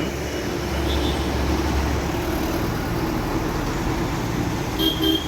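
Street traffic noise: a steady rumble of passing vehicles, with a short high tone near the end.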